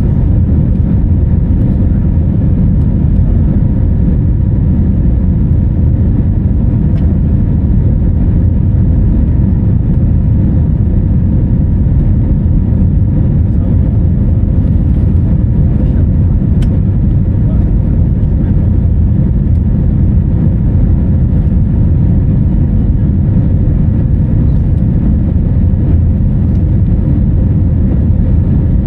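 Steady, loud low rumble of a vehicle heard from inside, with a faint steady hum over it and no change in pitch.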